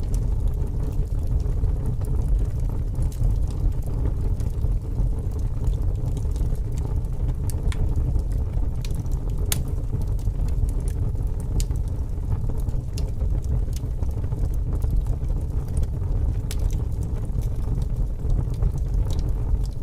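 Wood fire burning, crackling with scattered sharp pops, over a steady low rumble of strong wind.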